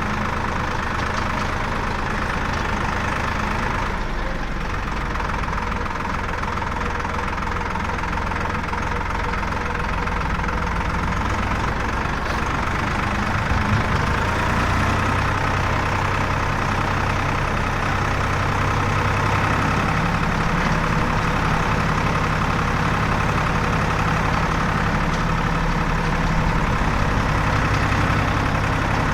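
Heavy diesel engine of earthmoving machinery running steadily at a constant level, its note shifting in pitch a few times as the machine works.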